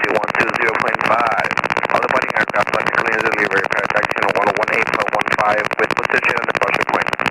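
Voices talking over an aircraft radio or intercom, thin and narrow-sounding like a headset feed, with a steady helicopter noise underneath.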